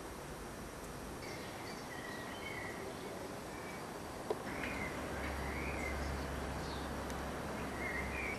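Outdoor garden ambience: birds chirping in short warbling calls over a steady hiss. A single click about four seconds in, then a low rumble underneath.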